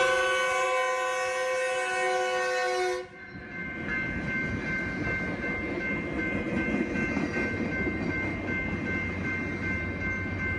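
Metrolink commuter train's locomotive horn sounding a chord for a road crossing, cutting off sharply about three seconds in. It is followed by the steady rumble and rail noise of the train running on the track.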